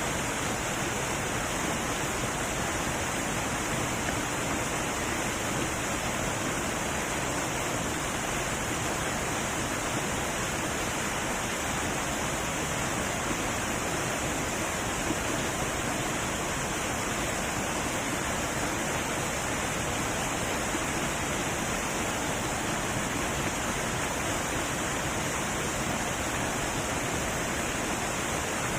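Heavy waterfall pouring steadily: a constant, even rush of falling water with no breaks.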